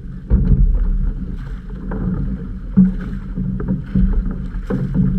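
Outrigger canoe under way: a heavy low rumble of water and wind on the GoPro, with scattered, irregular knocks and splashes.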